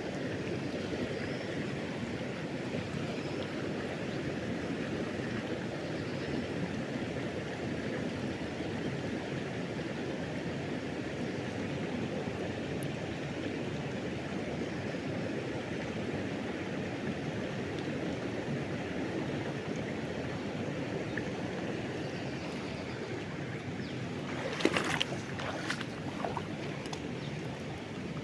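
River water rushing steadily. Near the end a few sharp knocks or splashes cut through briefly.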